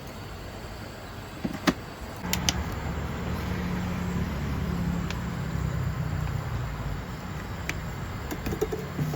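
An engine running steadily from about two seconds in, with a few sharp clicks and taps.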